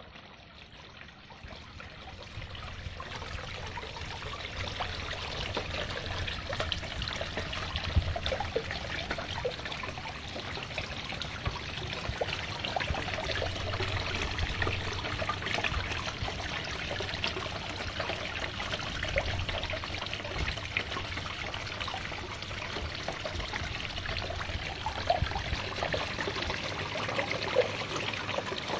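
Water trickling and splashing steadily over a small homemade artificial waterfall into a fish pond. It swells over the first few seconds, then runs on evenly.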